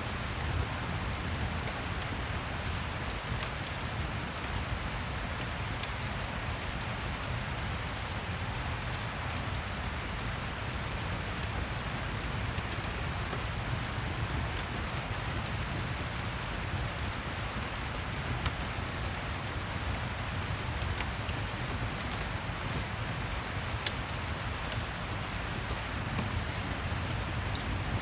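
Steady rain ambience with a deep low rumble, and now and then a sharp crackle from a fireplace.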